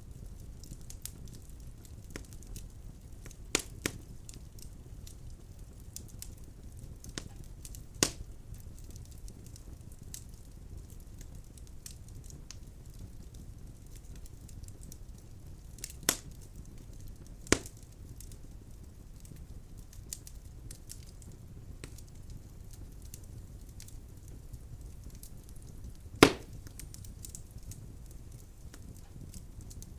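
Wood fire burning in a fireplace: a steady low rumble with many small crackles and a handful of sharp pops, the loudest near the end.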